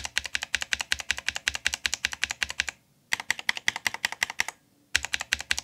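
Mechanical keyboard keys (blue and yellow switches, the blue lubed with hand cream) pressed rapidly over and over, in three quick runs of clicks with short pauses between.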